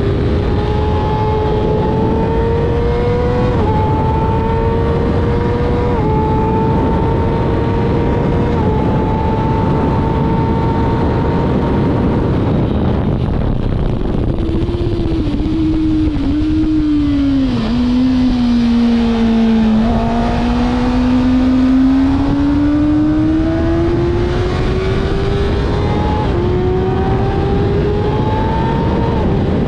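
Kawasaki ZX6R inline-four engine heard onboard at speed over heavy wind rush: it pulls up through the gears with a brief dip in pitch at each upshift, then falls in pitch through several downshifts as the bike slows for a corner, and climbs again as it accelerates out.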